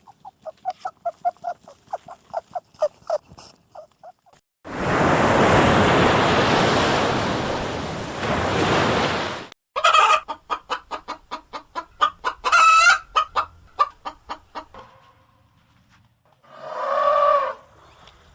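Chickens clucking in quick runs of short, rapid notes, broken by a loud, hiss-like noise of about five seconds that cuts off sharply, with one short call near the end.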